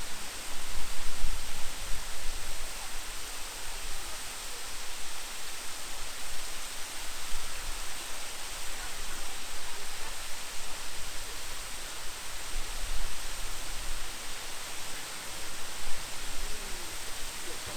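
Waterfall: a steady, loud rush of falling water, with low rumbles now and then.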